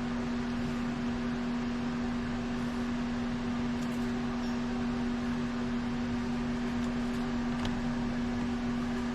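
A steady mechanical hum with a constant low tone and no change in pitch, like a running fan or motor.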